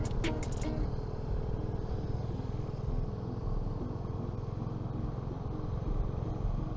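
Honda CB350's single-cylinder engine running steadily under the rider while cruising, with road noise, and a few sharp ticks in the first second.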